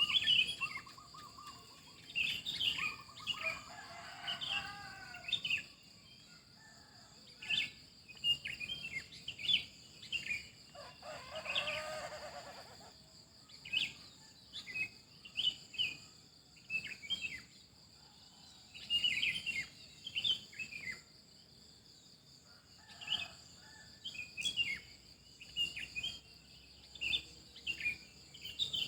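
Small birds chirping in a dense chorus of short, quick notes, over a steady high insect drone. Twice, about four seconds in and again near the middle, a longer, lower call with several stacked tones stands out.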